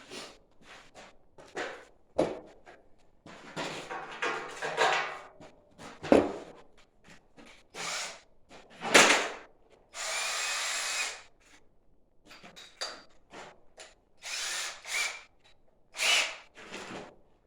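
Workshop tool and handling noises: a run of irregular short scrapes and knocks, with a steady burst of noise lasting about a second, about ten seconds in.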